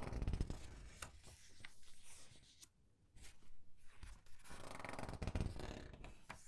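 Comic book pages being turned and squeezed, a papery rustle swelling twice: once at the start and again about four and a half seconds in, with light paper clicks in between.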